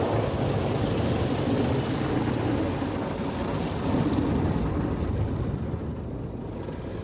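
Automatic car wash equipment running over the car: a loud, steady rushing noise with a low rumble, easing off over the last couple of seconds.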